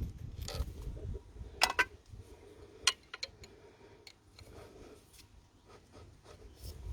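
Hand tools working on a diesel engine's injector bolts and clamps: a scattered run of short metal clicks and taps, the sharpest about a second and a half in and near the three-second mark.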